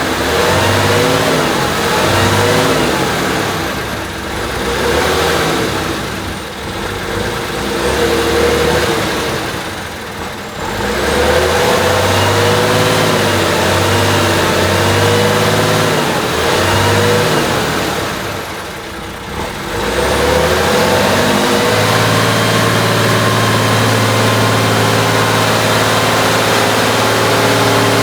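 Praga V3S 6x6 off-road truck's engine revving up and down again and again as it works the trial course, the pitch swinging with the throttle and dropping back several times. For the last several seconds it holds at a steady high note.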